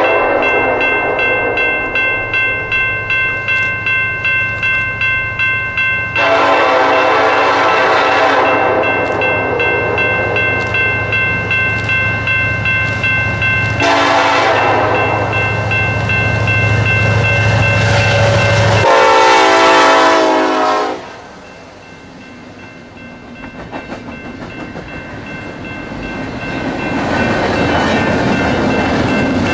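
Diesel locomotive horn sounding three times over a train's running rumble: a long blast, a short one, then another long one. After the last blast the sound drops away, then builds again near the end.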